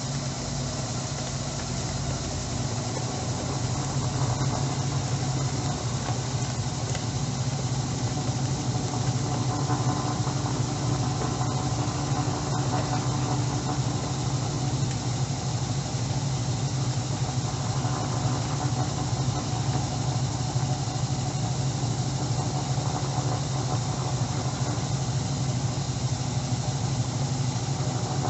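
Electrolux Turbo Economia LTE09 top-load washing machine running with a steady low hum in the drain-and-spin stage between the wash and the rinse fill.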